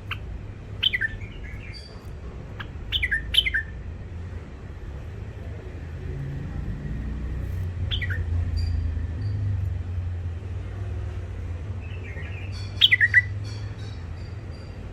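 Caged bulbuls chattering: short, quickly falling calls in a few small clusters, about a second in, around three seconds, around eight seconds and near the end, over a steady low hum.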